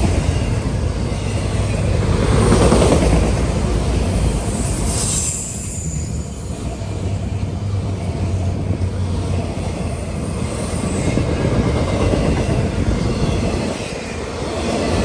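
A train rolling past on steel rails: a continuous loud rumble of wheels on track, with a brief high squeal about five seconds in.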